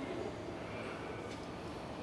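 Quiet, steady room tone with no distinct event.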